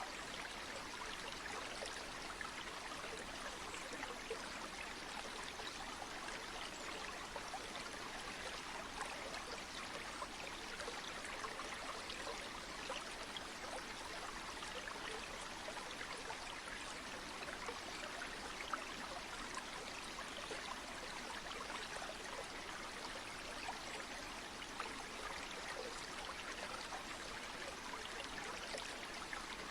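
Flowing stream water rushing steadily, an even hiss full of small splashes.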